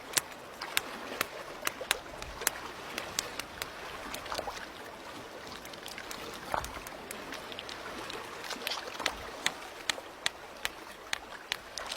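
A monkey hammering a rock oyster with a stone tool, making sharp irregular clicks of stone on shell about twice a second to crack it open. Behind the clicks is a steady wash of water.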